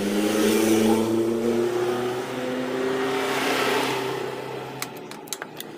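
A motor running with a pitch that wavers up and down and then fades, followed by a few sharp clicks near the end.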